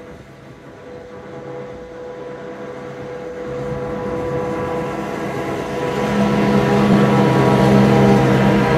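Heritage locomotive-hauled train approaching, its locomotive running with a steady low hum that grows steadily louder as it nears.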